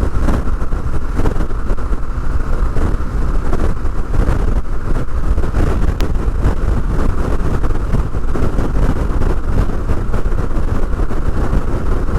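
Motorcycle under way, with wind rumbling and buffeting over the microphone on top of engine and road noise.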